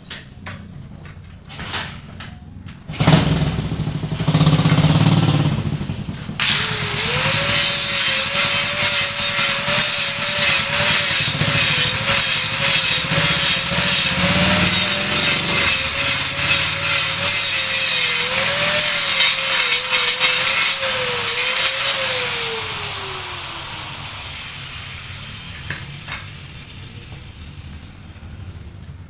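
Handheld electric power tool grinding metal: a loud gritty hiss over a motor whine that wavers under load. About six seconds in it starts in earnest, after a few knocks and a shorter burst. Late on the whine falls away as the motor winds down after being released.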